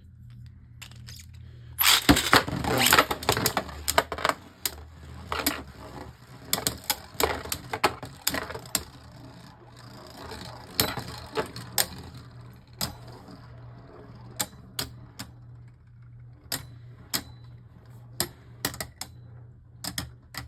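Beyblade spinning tops launched into a plastic stadium with a dense flurry of clicks about two seconds in, then spinning and striking each other and the stadium walls in irregular sharp clicks and knocks. A faint steady low hum runs underneath.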